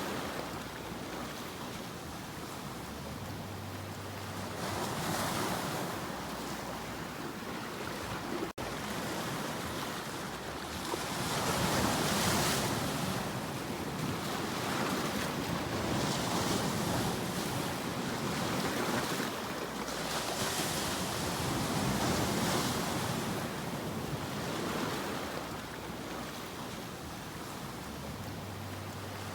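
Sea waves breaking and washing on the shore, a steady rush that swells and ebbs every few seconds, with a momentary dropout about a third of the way in.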